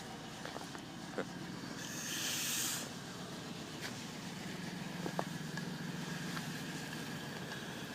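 Car engine idling steadily after a cold start in the snow, an idle the owner blames on a throttle body that needs fixing. A brief hiss about two seconds in and a few light clicks.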